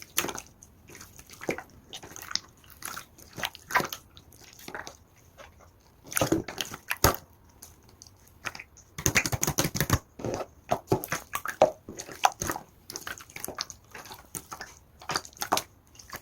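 Clear slime being squished and worked by hand, giving irregular wet, sticky clicks and squelches, with a dense flurry of clicks about nine seconds in.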